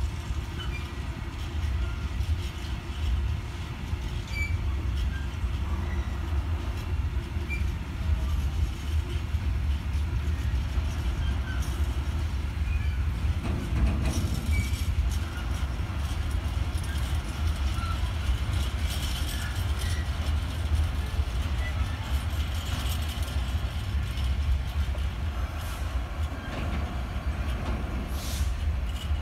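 Freight train of open wagons hauled by a Class 66 diesel locomotive moving slowly, with a steady low rumble from the rolling wagons and the locomotive's two-stroke diesel engine.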